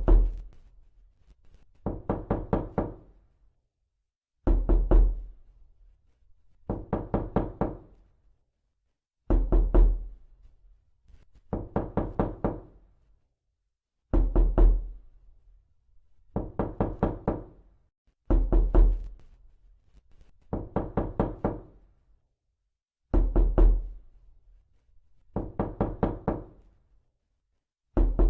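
Knocking in quick runs of raps, each run about a second long, repeating every two seconds or so. Every other run opens with a heavier, deeper thud.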